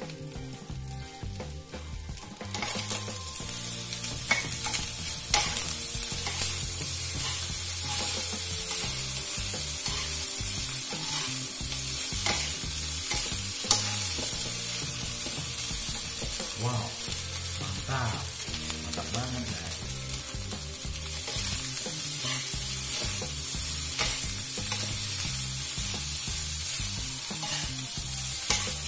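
Fried rice with bean sprouts sizzling in a stone-coated wok on a gas burner while a metal spatula stirs and tosses it, with scattered scrapes and taps of the spatula on the pan. The sizzle grows louder about two seconds in.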